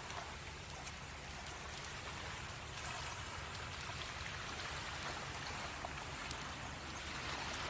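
Sea waves washing steadily on a beach as an even hiss, with a few sharp pops from a wood campfire, the loudest about two seconds in and again near six seconds.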